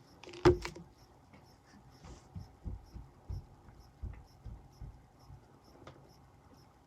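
A sharp knock, then a run of soft, dull thumps about three a second, and a faint click near the end.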